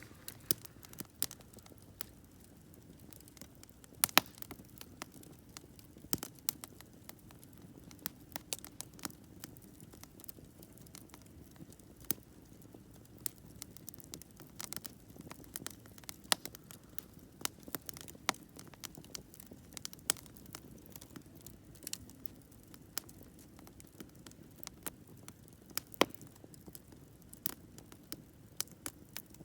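Wood campfire burning, crackling with irregular sharp pops over a soft steady hiss; the two loudest pops come about four seconds in and near twenty-six seconds.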